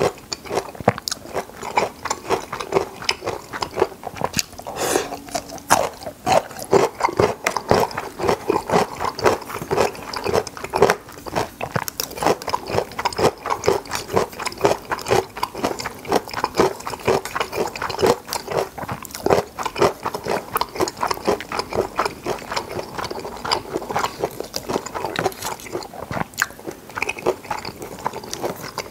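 Close-miked chewing and wet mouth smacks of someone eating creamy spaghetti carbonara, a quick, irregular run of clicks and smacks several times a second.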